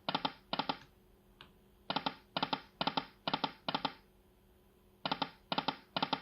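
Timber Wolf slot machine's reels stopping one after another, a short clicky clunk for each reel about every half second, in runs of five with short gaps between spins.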